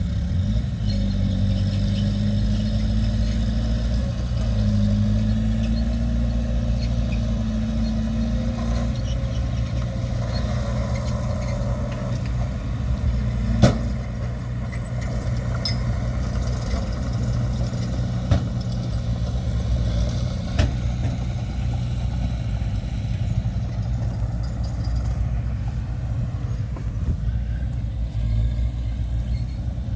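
Heavy earthmoving machinery's diesel engine running steadily, its pitch shifting with the load for the first several seconds, with three short clanks in the middle.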